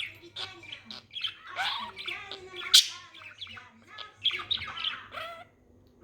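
Budgerigar chattering and warbling in quick, varied chirps, with one sharp click about three seconds in; the chatter stops about half a second before the end.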